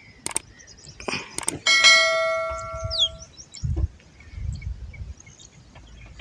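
A metal object struck once, ringing like a bell and fading over about a second and a half, after a few sharp clicks.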